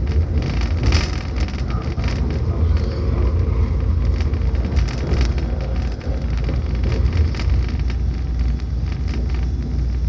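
Airport express train running at speed, heard from inside the carriage: a steady low rumble with irregular clicks and rattles.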